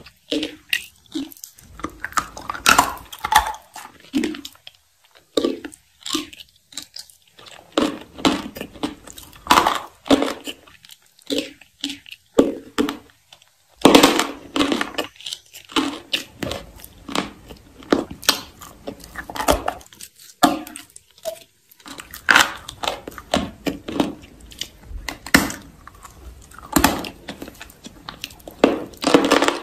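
Close-miked chewing and crunching of something brittle and roasted, with many irregular crisp crunches and crackles between quieter chewing, the loudest burst about halfway through.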